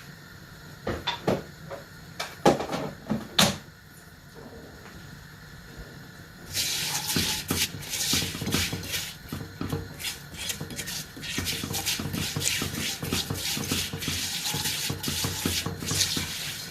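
Vermicelli frying in hot oil in a pot. A few knocks of a spoon against the pot come first, then a dense crackling sizzle starts suddenly about six seconds in and keeps on as the vermicelli browns.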